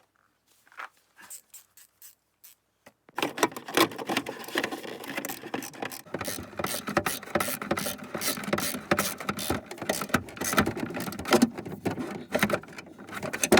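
Socket ratchet clicking rapidly as bolts holding the rear bumper impact absorber bar are tightened, starting about three seconds in and going on steadily with a metallic rattle.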